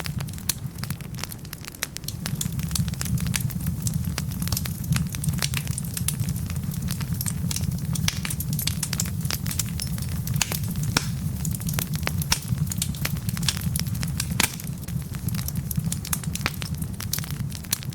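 Wood fire burning in a fireplace: a steady low rumble with dense, irregular crackles and pops from the burning logs.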